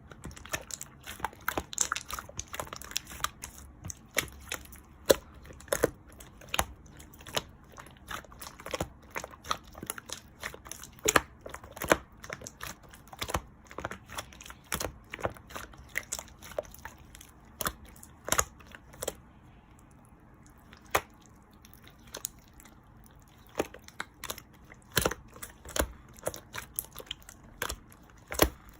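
Pink clear slime being pressed and stretched by hand, giving off irregular sticky clicks and pops, several a second, some much louder than the rest.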